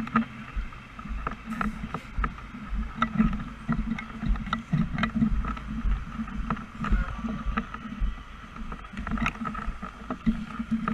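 Engine and road noise inside a moving vehicle: a steady low rumble with frequent clicks and rattles.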